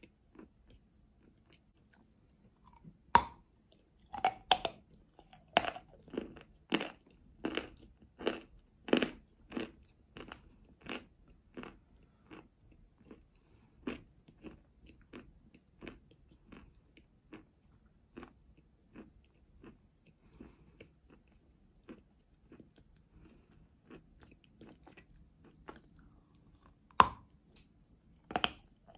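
A person biting and chewing chalk close to the microphone. There is a loud crunching bite about three seconds in, then steady crunchy chewing at about three chews every two seconds that slowly grows fainter, and another sharp bite near the end.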